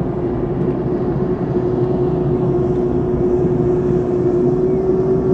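A motor running steadily, most likely a boat engine: a constant hum over a low rumble that does not change.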